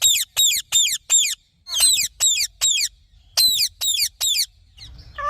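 Indian ringneck parakeet giving shrill screeching calls. Each call is short and falls sharply in pitch, and they come about three a second in quick runs of three to five with brief pauses between.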